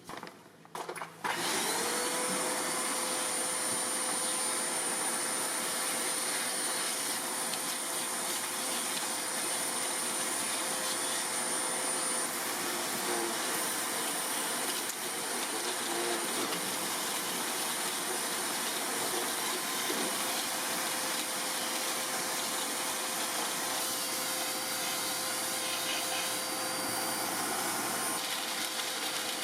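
Vacuum cleaner switched on about a second in. Its motor whine climbs briefly and then settles into a steady run with a high whine over the rush of air.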